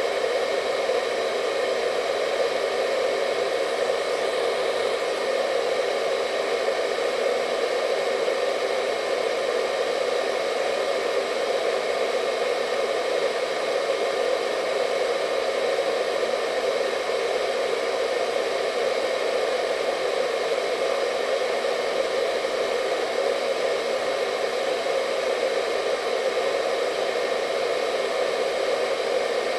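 Hair dryer running steadily on one setting, a constant airy rush with a faint motor whine over it.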